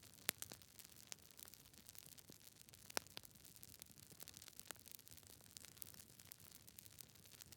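Fire crackling in a fireplace: irregular sharp pops and snaps over a faint hiss, with the loudest snaps just after the start and about three seconds in.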